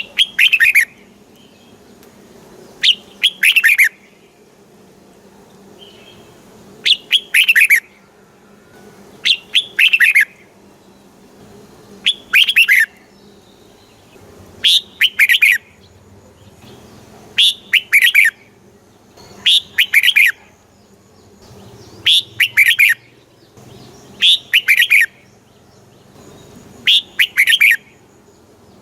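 Red-whiskered bulbul singing: a short phrase of two or three quick notes falling in pitch, repeated about every two to three seconds, over a faint steady low hum.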